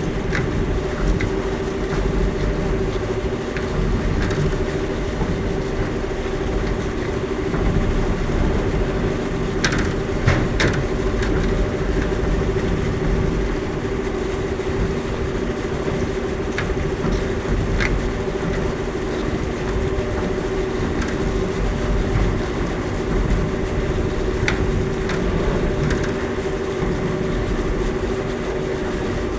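Mine Smart Ferry electric boat under way: a steady mid-pitched electric drive hum over a low rumble, with a few scattered clicks.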